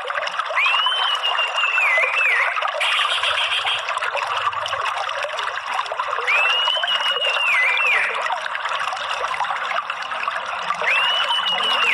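Steady trickling water with three long whistled calls from an orange-headed thrush, about five seconds apart. Each call rises, holds a high note, then dips at the end.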